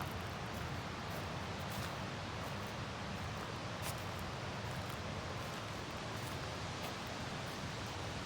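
Steady outdoor ambience: an even rushing noise with a few faint scattered ticks.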